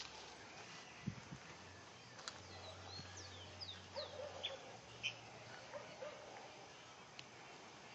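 Faint bird chirps: a quick series of short, high, falling notes in the middle, with scattered clicks and a low steady hum behind.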